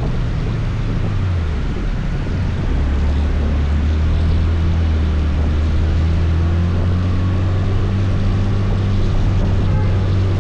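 Motor scooter engine running under way, a steady low hum over a wide hiss of wind and road noise; its pitch drops about two seconds in, then holds steady.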